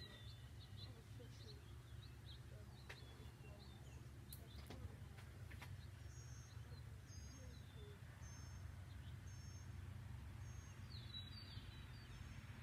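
Faint outdoor ambience: a steady low rumble with small birds chirping, including a short high chirp repeated about once a second through the second half.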